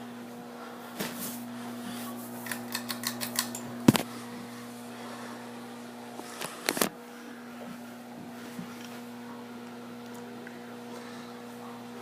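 Hampton Bay ceiling fan motor giving a steady electrical hum. A quick run of light clicks comes about two and a half seconds in, then a sharp knock near four seconds and a few more knocks around seven seconds.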